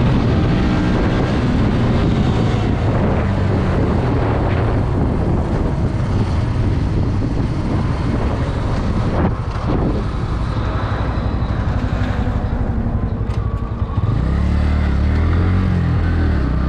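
Motorcycle engine running on the move, with a steady rush of wind and road noise over it. About fourteen seconds in, a deeper engine note takes over, rising and falling in pitch.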